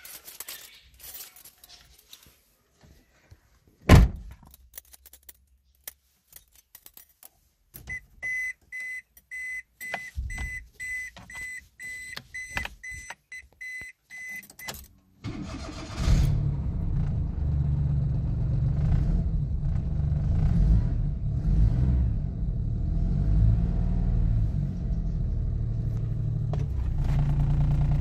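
2003 Daihatsu Storia in the cabin: a few clicks and a sharp thud, then a steady high warning beep broken by clicks for several seconds. Past the halfway point the engine cranks briefly, catches and settles into a steady idle.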